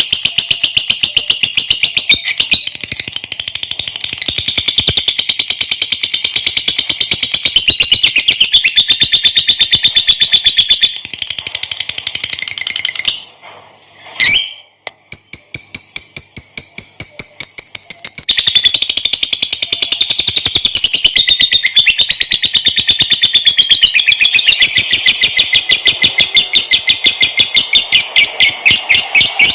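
Lovebird singing a long, fast chattering trill of rapid high notes (the 'ngekek panjang' song). It breaks off briefly about halfway through, then resumes.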